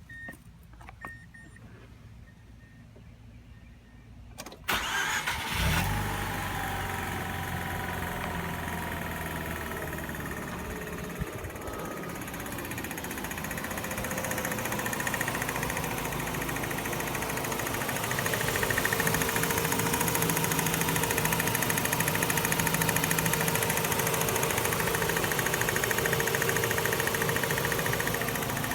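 2006 Mazda RX8's twin-rotor rotary engine is cranked about four and a half seconds in, catches at once and settles into a steady idle that gets slightly louder later on. A constant clicking runs through the idle and persists after a fresh oil change; the owner has been told it could be the SSV (secondary shutter valve) or low compression.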